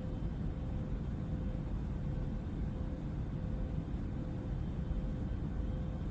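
Jet airliner engine drone heard as cruise cabin ambience: a steady low rumble with a faint constant hum, unchanging throughout.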